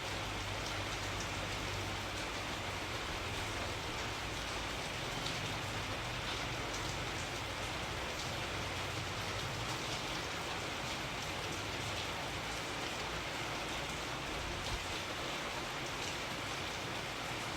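Steady rain falling, an even hiss with scattered drop ticks over a faint low rumble.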